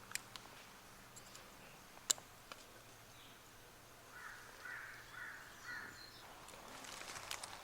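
A crow cawing four times in quick succession about halfway through, faint, with a few sharp clicks before and after.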